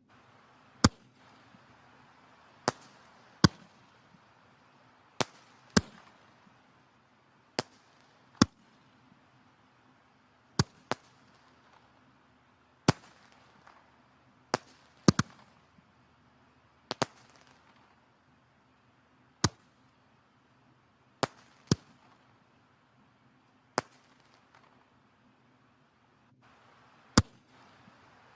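Wood fire burning in a fireplace, logs crackling with sharp, irregular pops, often several seconds apart and sometimes in quick pairs, over a faint steady hiss of the flames.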